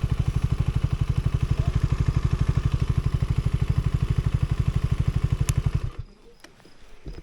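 KTM Duke 250's single-cylinder engine idling with an even pulsing beat, then switched off about six seconds in. After it stops, faint insect chirping and a couple of light knocks remain.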